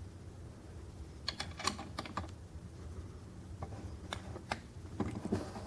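Light, irregular clicks and taps from a diecast scale model being handled, small metal and plastic parts knocking together.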